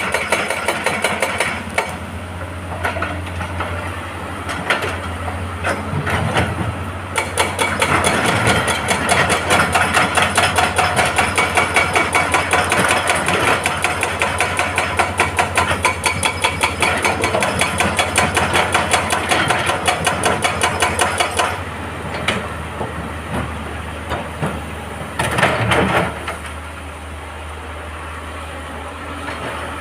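Excavator-mounted hydraulic breaker hammering rock in a long run of rapid, evenly spaced blows, over the steady running of the excavator's diesel engine. The hammering stops about two-thirds of the way through, leaving the engine running, and a short loud clank comes near the end.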